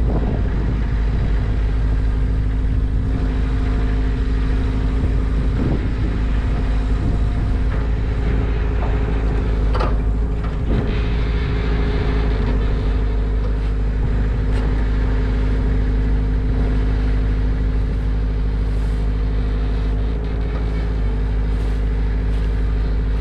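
An engine running steadily at one constant speed, with a few faint knocks about six and ten seconds in.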